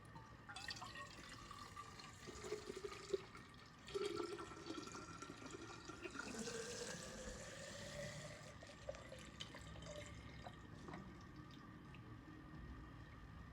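Water running into a bottle, faint, with a tone that rises in pitch partway through as the bottle fills.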